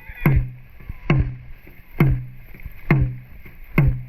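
Dragon boat drum beaten at a steady race pace, five booming strokes about one every 0.9 seconds, each with a short low ring that drops in pitch. The beat sets the paddlers' stroke rate.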